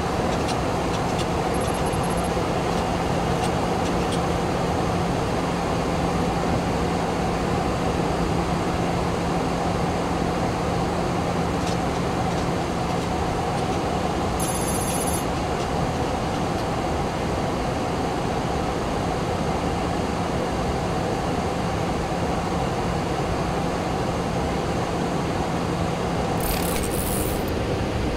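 Steady flight-deck noise of a Boeing 737-800 in flight on approach: an even rush of air and systems with a constant low hum. Brief high-pitched electronic tones sound three times, about two seconds in, near the middle and near the end.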